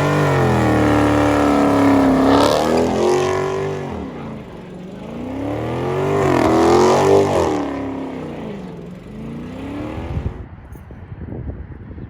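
Car engine revving twice, rising and falling in pitch each time, with the second rev the louder, about seven seconds in. Near the end it gives way to quieter, rough outdoor noise.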